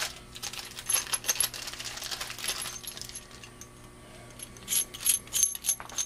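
Small metal coax connector parts clinking and rattling as they are picked up and handled, in a cluster of light clinks about a second in and another near the end.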